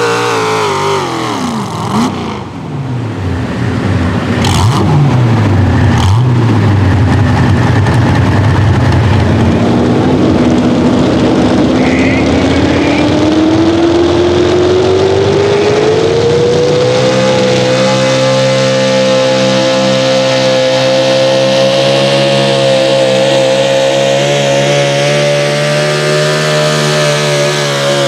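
Pro Stock four-wheel-drive pulling truck's engine at full throttle under load. The revs sag in the first few seconds with a few sharp cracks, then climb steadily for several seconds and hold high and steady.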